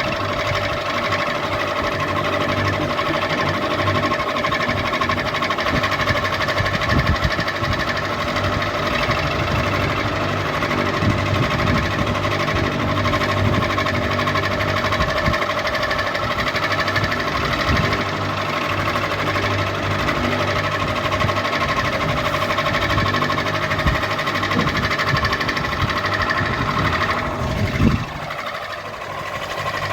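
Ceiling fan running: a steady motor hum with an uneven low knocking rattle beneath it. Near the end the rattle briefly drops away as a tone sweeps downward, then the running sound resumes.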